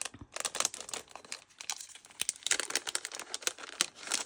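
Packaging crinkling and rustling in bursts as it is handled, with a quieter gap in the middle.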